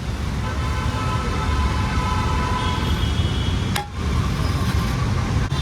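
Busy road traffic running steadily, with a vehicle horn sounding for a couple of seconds in the first half and another short toot later.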